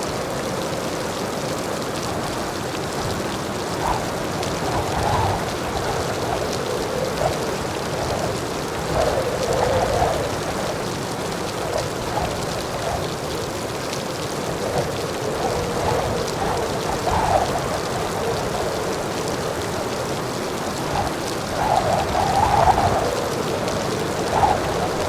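Heavy rain falling steadily, a dense patter of drops with the level swelling now and then, most strongly about twenty-two seconds in.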